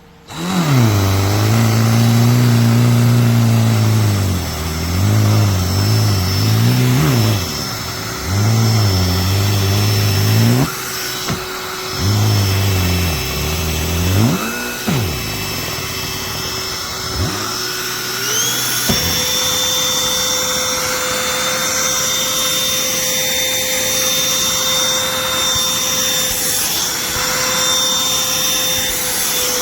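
Cordless handheld vacuum running: a low hum that wavers in pitch and cuts in and out several times, then, about two-thirds of the way through, settles into a steady higher whine.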